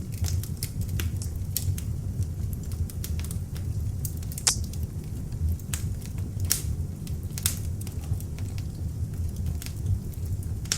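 Beech-wood log fire burning in an open fireplace: a steady low rumble of flames with scattered sharp crackles and pops, a few louder snaps around 4.5, 6.5 and 7.5 seconds in.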